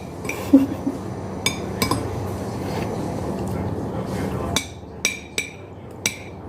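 Eating utensils clinking against a dish about six times. Each strike rings briefly, and most come close together in the second half.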